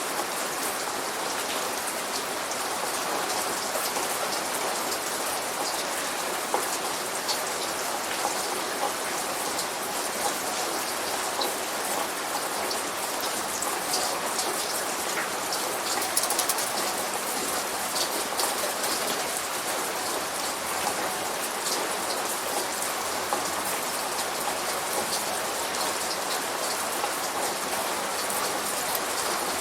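Steady light rain falling on a surface, with individual drops pattering throughout; no thunder is heard.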